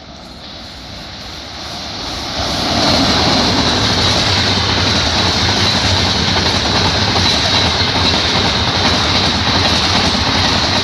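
Indian Railways express train passing close by: the rush and rumble of wheels on rail grows louder over the first two to three seconds, then holds loud and steady, with a high-pitched ring over the noise.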